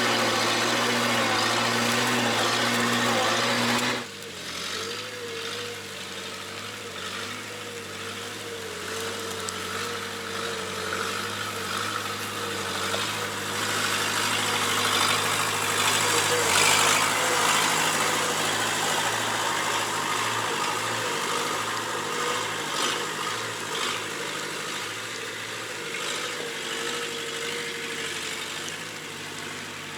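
Bobcat 773 skid steer's diesel engine running. About four seconds in the sound drops suddenly and goes on quieter, with a wavering whine that rises and falls as the machine is worked.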